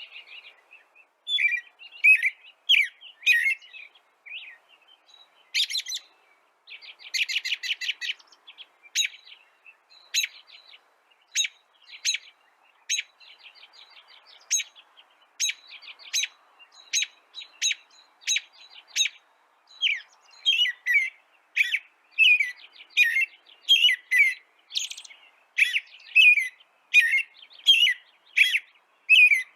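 Songbird chirping: short sharp chirps, a quick trill about seven seconds in, and from about twenty seconds a fast run of falling chirps, about two a second.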